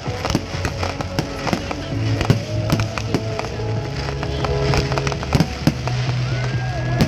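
Fireworks display: aerial shells bursting in many sharp, irregular bangs and crackles, one after another.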